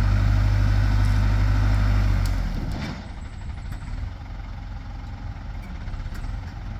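Backhoe's diesel engine running loud and steady while the machine works, then easing off to a lower, quieter run a little over two seconds in.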